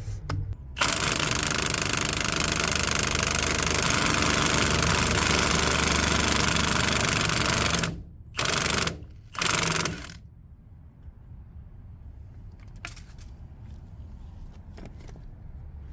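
Impact driver hammering as it backs out the threaded plug of a 4-inch sewer cleanout, turning a plug-twist socket: one long run of about seven seconds, then two short bursts.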